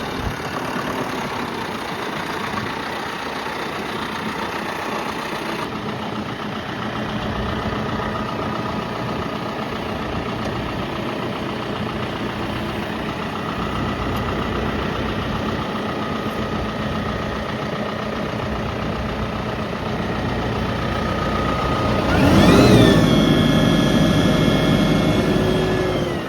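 John Deere 5095M tractor's four-cylinder diesel engine running steadily at idle. Near the end it is revved up quickly, held at a higher speed for a few seconds, then let back down.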